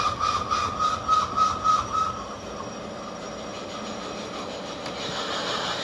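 Workshop machinery running with a pulsing tone at about three beats a second, which stops about two seconds in; steady machine noise follows, and a hiss rises near the end.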